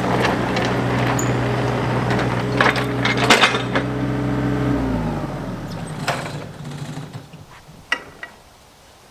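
An engine running steadily, with several sharp metallic knocks about three seconds in, then switched off about five seconds in, its pitch falling as it winds down. A few light knocks follow.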